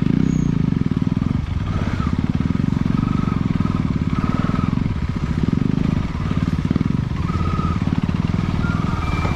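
Off-road motorcycle engine running at low revs on a trail, the throttle opening and easing every few seconds so the engine note swells and drops.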